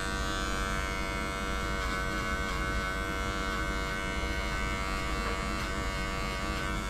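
Electric dog-grooming clippers running with a steady buzz, used to clip matted fur from a puppy's coat.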